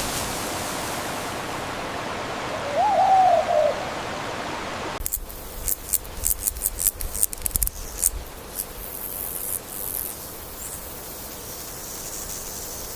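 Rainforest ambience: a steady hiss with a single short animal call, rising then falling in pitch, about three seconds in. About five seconds in the background changes abruptly to a run of sharp clicks and high chirps.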